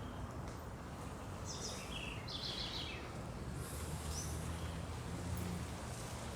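Songbirds singing at dawn: a couple of short, rapid trills of high notes a couple of seconds in and a brief call about four seconds in, over a steady low background rumble.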